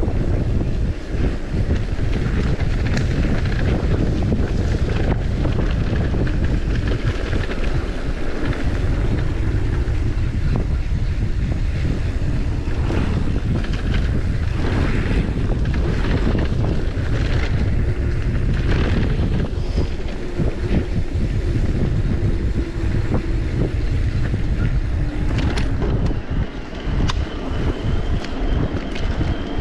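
Heavy wind buffeting the microphone, a steady loud low rumble with scattered rustles and knocks.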